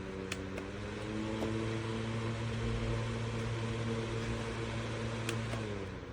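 Koonie 8-inch battery-powered portable fan running with a steady motor hum. A click just after the start is followed by the hum rising a step in pitch as the fan speeds up; after another click about five seconds in, the hum slides down as the fan winds down.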